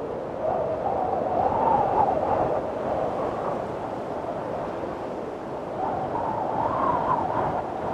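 Strong wind blowing in gusts, with a wavering whistling howl that rises twice: about half a second in and again about six seconds in.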